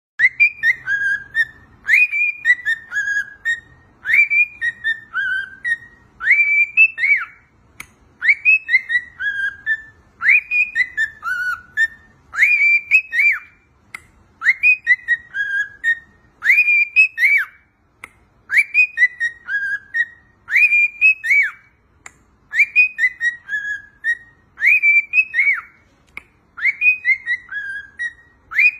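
Cockatiel whistling a short tune, the same phrase of rising and falling notes repeated about every two seconds.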